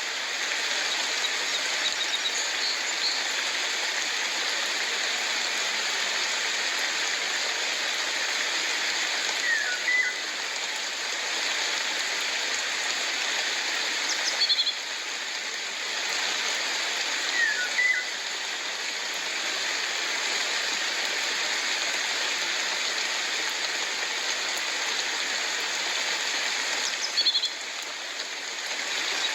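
Steady rain falling, an even hiss, with a bird giving a short chirp every few seconds, four times in all.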